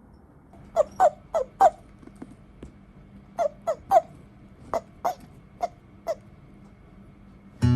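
A series of short, sharp animal calls, about eleven in groups of three or four, each lasting only a split second.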